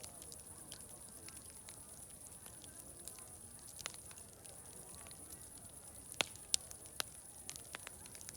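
Wood fire crackling with irregular sharp pops, the three loudest coming close together a little past the middle, over a faint murmur of distant crowd chatter.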